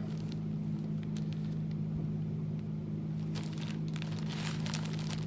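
Plastic bread bag crinkling in short rustles as it is turned over in the hands, over a steady low hum.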